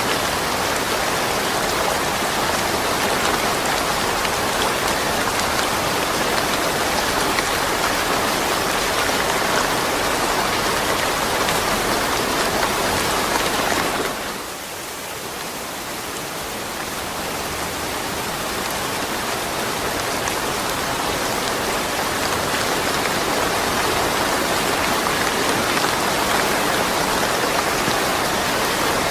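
Steady rain falling, with no thunder. About halfway through it drops suddenly in loudness, then builds back gradually over several seconds.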